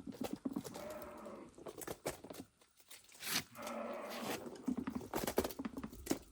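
Sheep bleating in two long calls, mixed with some short knocks and rustling.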